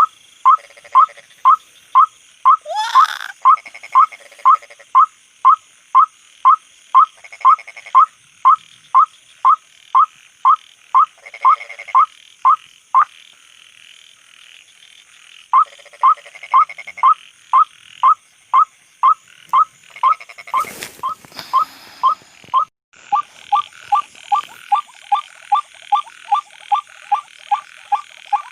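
White-breasted waterhen 'ruak-ruak' calls: a short rising note repeated about twice a second, with a pause of a few seconds midway. Night insects trill steadily behind, and a sharp knock sounds about two-thirds of the way through.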